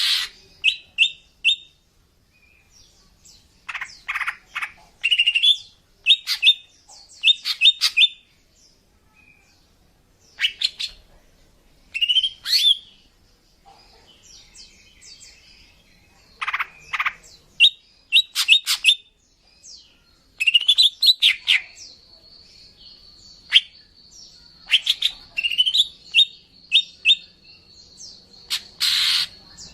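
Female cucak ijo (green leafbird) calling: clusters of short sharp chirps and quick rising trills, with short pauses between them. A thin steady high tone runs under the calls for several seconds in the second half.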